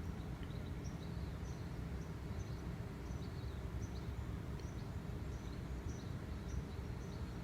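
Small bird chirping faintly in short, quick calls every half second or so, over a steady low hum.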